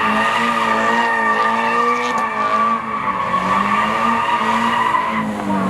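Car tyres squealing in one long unbroken wheelspin, with the engine held at high revs underneath. Near the end the squeal cuts off and the engine revs drop.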